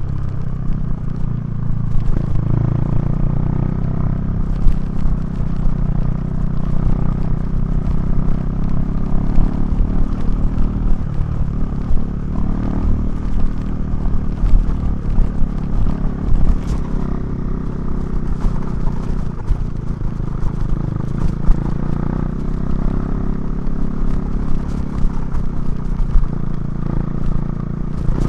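KTM 390 Duke's single-cylinder engine and Remus exhaust running under way, its pitch rising and falling with the throttle and dipping briefly twice. Scattered sharp knocks and clatter sound over it.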